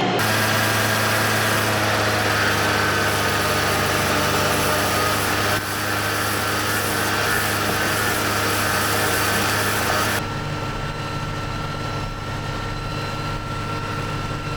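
Kubota M105S tractor's diesel engine running steadily at a constant speed. The sound shifts abruptly about five and ten seconds in, and the high hiss drops away at the second change.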